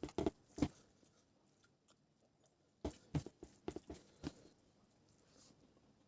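Close-up eating sounds: a person chewing food, heard as two bursts of short, sharp mouth clicks and smacks, a few at the start and a longer run about three seconds in.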